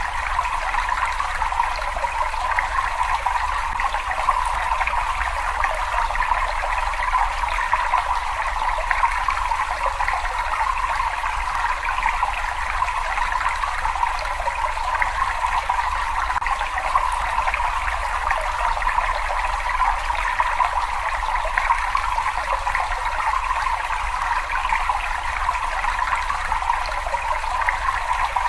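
Water flowing and trickling in a cave, a steady unbroken rush with no pauses or changes.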